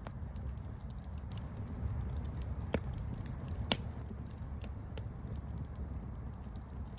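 Campfire burning with a steady low rumble of flames and scattered sharp crackles from the wood, two louder pops a little before the middle.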